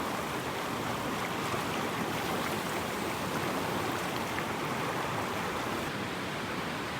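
Mountain stream running: a steady rush of flowing water.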